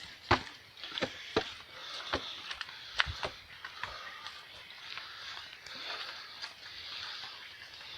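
Footsteps on a hiking trail, irregular knocks about once or twice a second that thin out after the first few seconds, over a steady high-pitched hiss.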